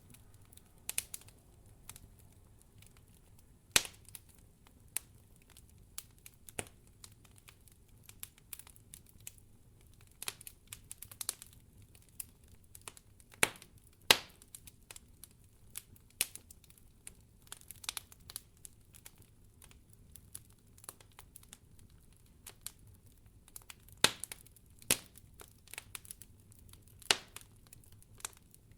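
Wood fire in a fireplace crackling: irregular sharp pops and snaps, a few louder ones standing out, over a faint low steady background.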